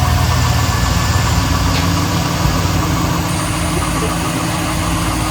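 Chevy pickup truck engine idling steadily, just restarted after stalling.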